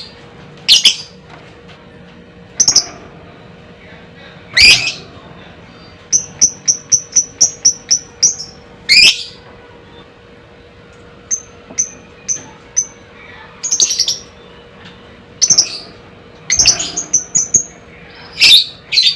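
Lovebird calling: loud, shrill single shrieks every few seconds, broken by runs of quick repeated chirps at about four a second, the longest run of about eight notes near the middle.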